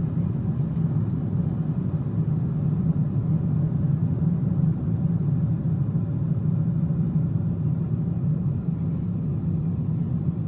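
Steady low rumble of a Boeing 777-200ER's cabin in cruise flight: engine and airflow noise, unchanging throughout.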